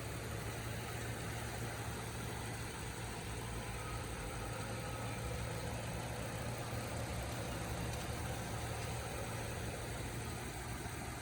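2015 Ford F-550 truck's engine idling steadily.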